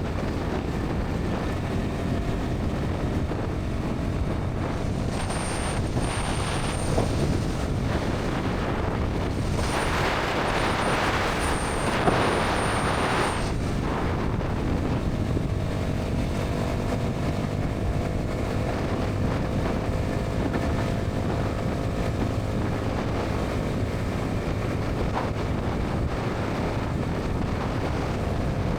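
Bajaj Pulsar NS 200 single-cylinder engine and exhaust running steadily at highway cruising speed, mixed with wind rush on the microphone. About a third of the way in, a brighter hissing rush swells for a few seconds and then drops away.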